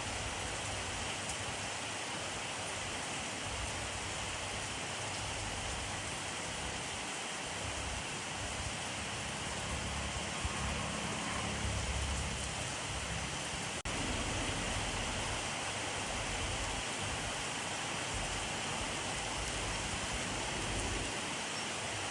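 Steady rainfall, an even, dense hiss of rain. A low rumble swells briefly around the middle, and there is one sharp click about 14 seconds in.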